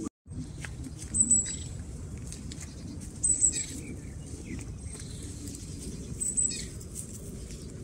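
Birds chirping: three short, high chirps about two to three seconds apart, over a steady low background noise.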